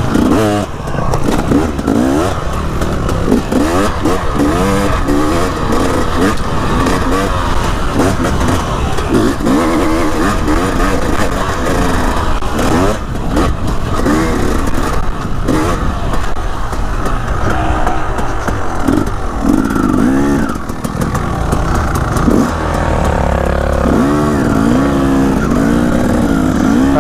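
Dirt bike engine revving up and down over and over, pitch rising and falling every second or two as the throttle is opened and closed through tight trail corners.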